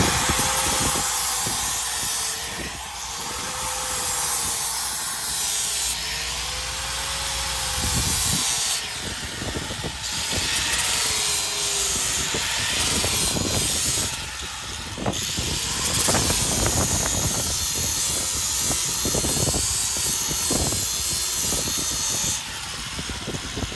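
Handheld power grinder running against the rubber lugs of a mini modified pulling tractor's tire, sharpening a fresh edge on them. Its motor pitch wavers as it is pressed into the rubber and eased off.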